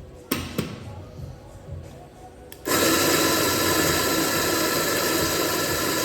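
Two sharp clicks, then an electric coffee grinder's motor switches on a little before halfway and runs at a steady, loud whine.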